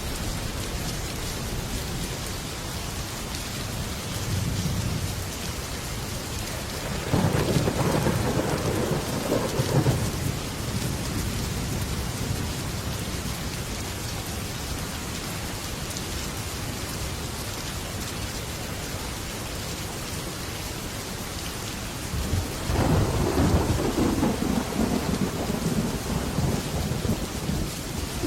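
Heavy rain falling steadily on a metal roof, with a long rumble of thunder about seven seconds in and another starting around twenty-three seconds in.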